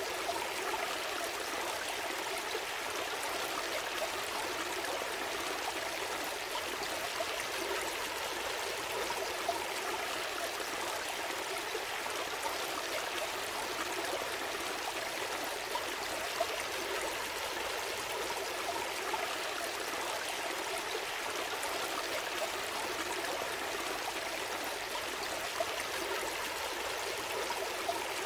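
A gentle forest stream flowing steadily over stones, with a continuous babble and small splashes.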